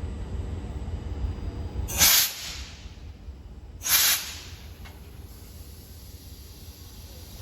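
Two short, loud hisses of compressed air venting from a train, about two seconds apart, each cutting in sharply and fading within half a second, over a low rumble that drops away after the first.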